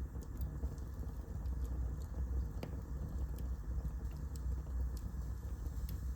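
Wood fire burning in a fireplace: a steady low rumble with scattered sharp crackles, one louder pop about two and a half seconds in.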